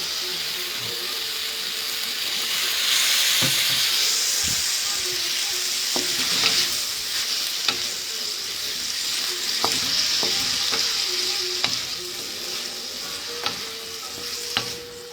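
Chicken and vegetables sizzling in a pan over high heat while being stir-fried, with scattered scrapes and clicks from stirring. The sizzle is loudest in the first half and eases slightly near the end.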